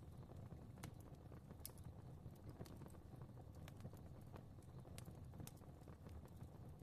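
Fireplace fire crackling faintly: a low steady rumble of flames with irregular sharp pops and ticks, a few each second.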